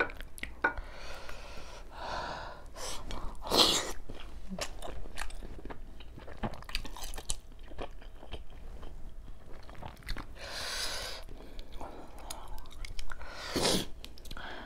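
Close-up chewing of steamed chicken momos, with irregular wet mouth clicks and smacks and a few louder breathy rushes, the loudest about three seconds in and near the end.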